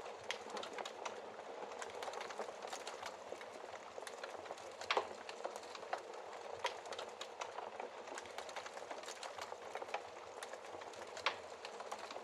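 Wood fire burning in a fireplace: a steady hiss with dense crackling, and a few louder pops, the sharpest about five seconds in and another near the end.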